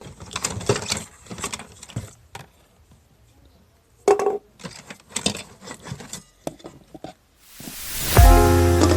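Irregular small clicks, taps and rattles of objects being handled, with a pause near the middle. Near the end a rising whoosh swells into music with held chords.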